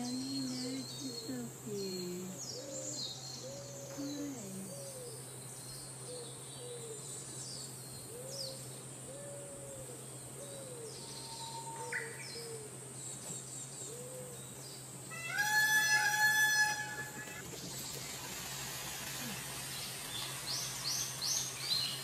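Birds calling: a string of low, arching notes in the first half and high chirps of small birds throughout, over a steady low hum. About two-thirds of the way through comes one loud call held for about two seconds.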